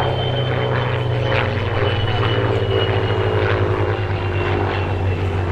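Hawker Fury biplane's Rolls-Royce Kestrel V12 engine and propeller running steadily and loudly, the engine note sinking slowly in pitch.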